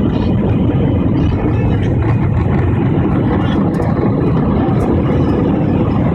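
Airliner engine and airflow noise heard inside the passenger cabin: a loud, steady, low rumble.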